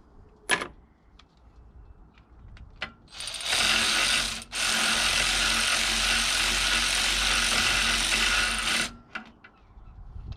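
Cordless electric ratchet running on a bolt, in two runs: a short one about three seconds in and a longer one of about four seconds right after. A single sharp click comes about half a second in.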